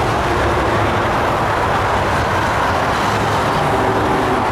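Norfolk Southern intermodal freight train rolling past: a loud, steady rumble of steel wheels on rail with a low, even hum underneath.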